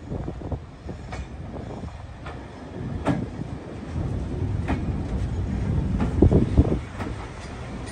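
A heritage railway train moving along the track: a steady rumble with scattered clanks and knocks, growing louder about six seconds in.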